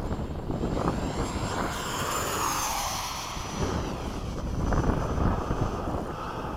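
Electric ducted-fan model F-5 jet making a fast pass. The fan's high whine falls in pitch as it goes by, over wind buffeting the microphone.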